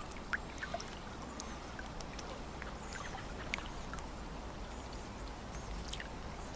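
Lake water lapping at the shore, with small irregular splashes and drips over a steady low rumble.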